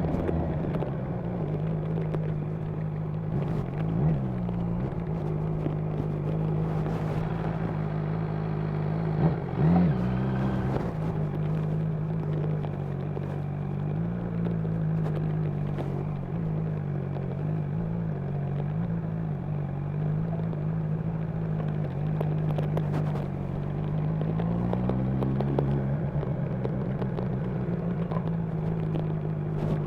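Honda CB1000R's inline-four engine running steadily at low revs while riding, its pitch wavering a little. The engine note rises as it accelerates about 25 seconds in and again at the very end.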